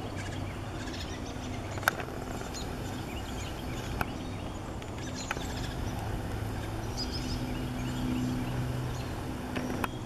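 Faint, short bird chirps scattered over a steady low hum, with a few sharp clicks.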